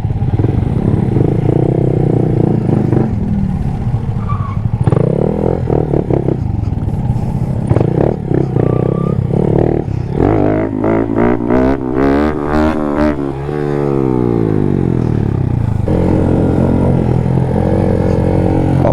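Small motorcycle engine running under way. Its pitch rises and falls about halfway through, then drops in one long slide as it slows, and it runs steady again near the end.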